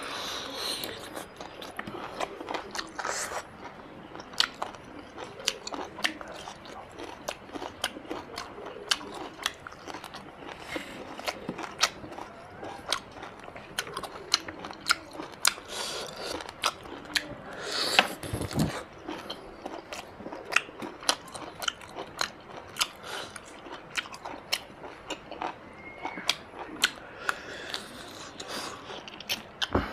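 A man chewing and biting pieces of mutton curry with rice, eaten by hand: steady wet chewing with frequent sharp mouth clicks and smacks, and one longer, louder noisy sound about eighteen seconds in.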